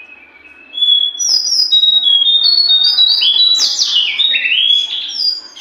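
A jongkangan songbird singing loudly in a rapid string of sharp whistled notes, stepping and sweeping down in pitch, starting about a second in and stopping just before the end.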